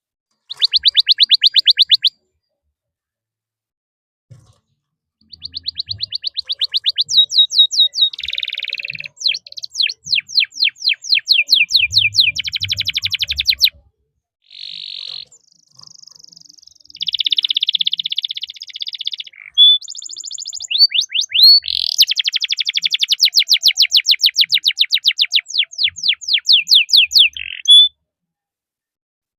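Domestic canary singing in fast trills and long rolls of rapidly repeated chirping notes. It starts with a short phrase about half a second in, pauses for about three seconds, then sings almost without a break in loud phrases until near the end.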